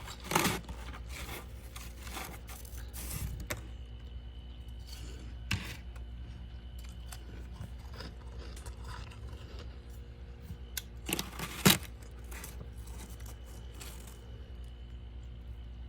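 A few short, sharp scraping crunches of freezer frost, spaced seconds apart over a low room hum. The loudest comes just before the twelve-second mark.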